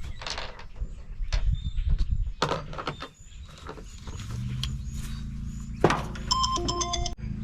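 Scattered metallic clanks and clicks as parts of an old air-conditioner condenser are handled, then a power drill starts about four seconds in and runs steadily, with a quick run of short high-pitched pulses near the end.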